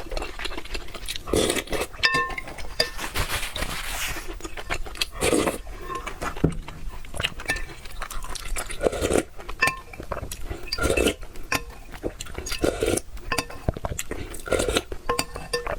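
Close-up eating of noodles: utensils clicking and clinking against a bowl, some clinks ringing briefly, between repeated bouts of slurping and chewing.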